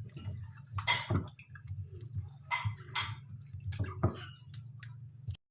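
Water splashing and dripping in irregular bursts, with a few sharp clicks, over a low steady hum. The sound cuts off abruptly near the end.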